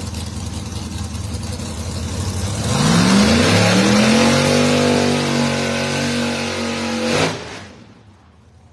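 Drag racing car launching down the strip: the engine runs steadily at first, then about two and a half seconds in its pitch climbs sharply and holds high at full power for a few seconds. It cuts off abruptly near the end.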